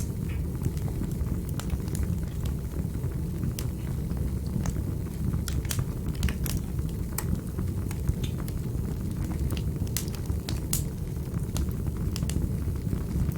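Fireplace fire burning: a steady low rumble of flames with irregular sharp crackles and pops scattered throughout, a few of them louder in the middle.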